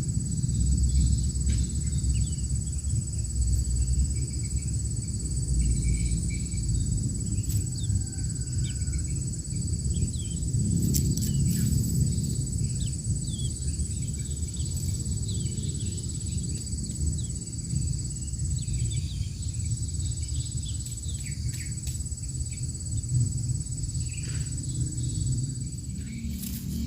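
Outdoor nature ambience: short high bird chirps scattered throughout over a steady high insect drone and a low rumble.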